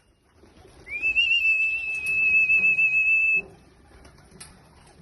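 A single long, steady, high-pitched whistle. It starts about a second in with a slight upward slide, holds one pitch with a little wavering, and stops after about two and a half seconds.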